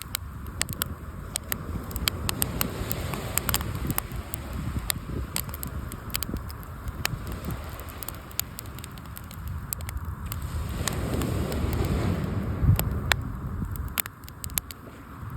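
Wood fire crackling and popping in quick, irregular snaps over the wash of waves on the shore, with a wave surging in louder from about eleven seconds in.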